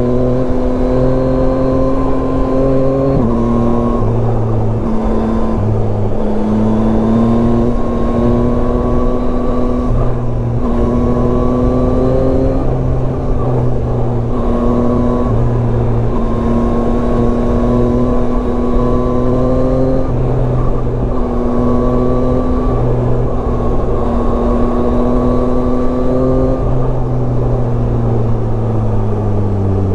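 Yamaha Tracer 9's three-cylinder engine heard from the rider's seat at road speed, with wind rushing over the microphone. The engine note drops sharply about three seconds in, then rises and dips a little several times as the throttle changes, and falls away steadily near the end as the bike slows.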